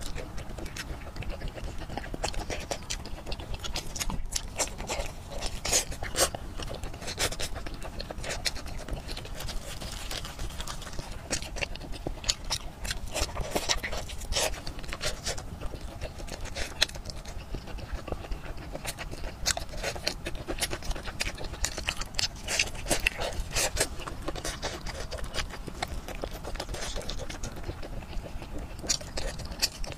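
Close-miked wet chewing and lip-smacking of fatty braised pork, a continuous run of irregular sticky clicks and pops.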